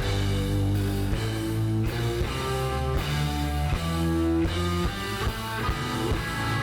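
Live rock band playing an instrumental passage led by guitar, with bass underneath and notes changing about every half second.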